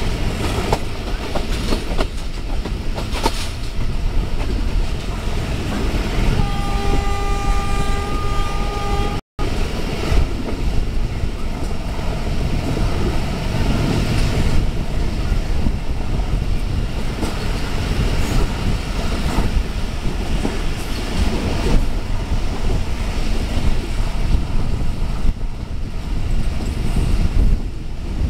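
Passenger train running at speed, heard from an open coach doorway: a steady rumble with wheel clatter over rail joints and wind noise. About a third of the way in the locomotive horn sounds one steady single-note blast lasting about three seconds, and the sound cuts out for an instant just after it.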